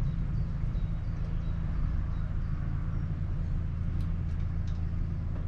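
A steady low mechanical hum, with a few faint metallic ticks and clinks of a spanner working loose the engine's sump drain bolt.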